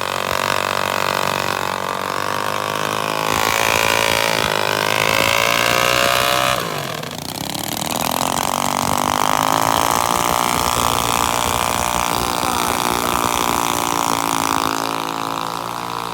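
Small minibike engine revving under way. Its pitch climbs, drops sharply about six and a half seconds in, then climbs again and holds high until it falls away near the end.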